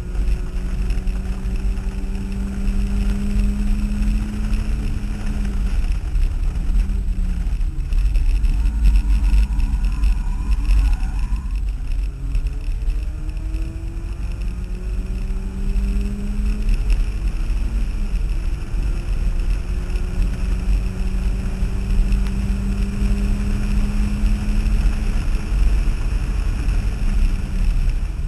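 Turbocharged Mazda Miata's four-cylinder engine heard from inside the cabin while being driven hard on track. Its note climbs slowly through several long pulls and drops back several times, over a heavy, steady rumble of road and wind noise.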